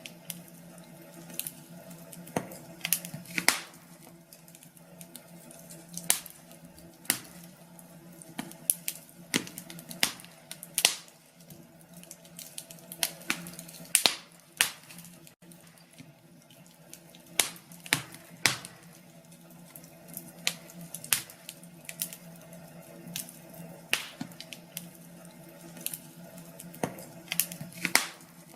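Wood fire crackling in a fireplace: irregular sharp pops and snaps, one or two a second, over a quiet steady background.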